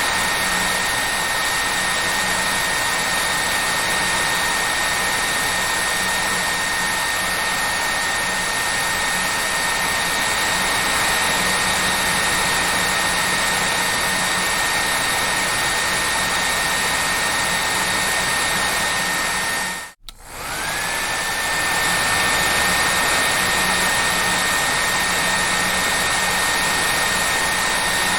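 Hair dryer running with a steady rushing whir and a high motor whine. About two-thirds of the way through it cuts out for a moment, then comes back with the whine rising as the motor spins up again.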